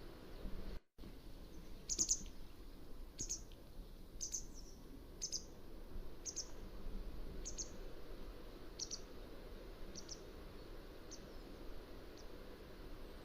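Mountain wagtail calling: a series of about eleven short, high call notes, roughly one a second, that grow fainter toward the end, over a steady low background hiss.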